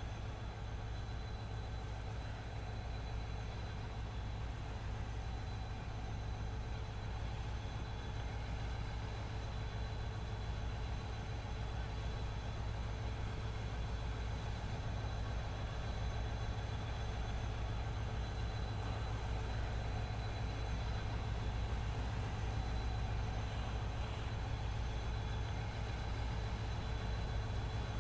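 Diesel locomotive engine of a freight train, a steady low rumble with a faint steady whine above it, slowly growing louder as the train approaches.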